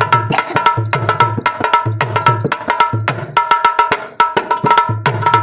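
Instrumental interlude of Indian folk music: a hand drum played in a fast, steady rhythm, with a held high tone sounding over it.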